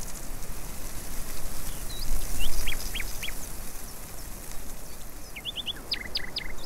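Small birds chirping in short high calls: one about two seconds in, a cluster of four around three seconds, and a quicker run of calls near the end, over steady outdoor background noise.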